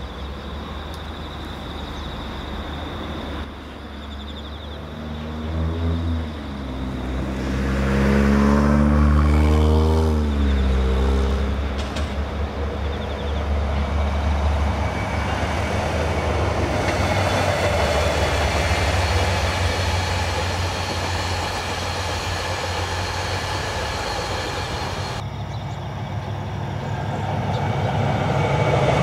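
A DF200 diesel-electric locomotive hauling a train of passenger coaches passes by. The engine's drone builds as it approaches and drops in pitch as it goes past about ten seconds in. The steady rumble and rush of the coaches rolling by on the rails follows.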